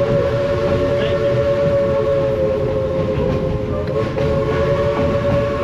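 Inside a moving East Broad Top narrow-gauge passenger coach: the rumble and rattle of the running train, with a steady high tone held over it without a break.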